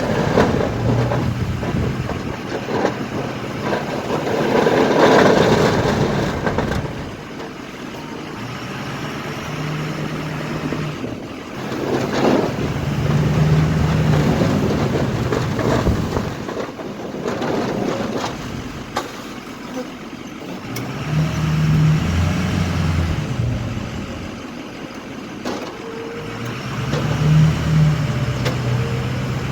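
Snow-plow pickup truck's engine working through repeated pushes, its note swelling and dying away every few seconds, with hissing noise in between.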